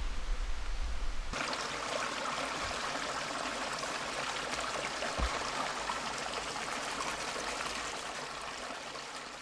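Steady rush of a small stream running, starting abruptly about a second in after a low rumble.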